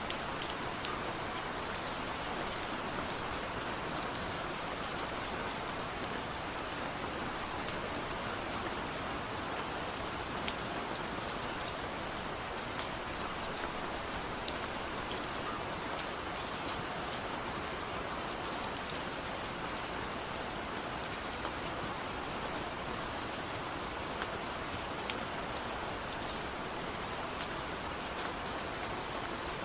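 Steady light rain falling, an even hiss with scattered fine ticks of individual drops on a surface.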